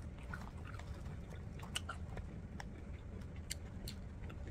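A person chewing close to the microphone while eating french fries, with scattered short wet mouth clicks over a low steady hum.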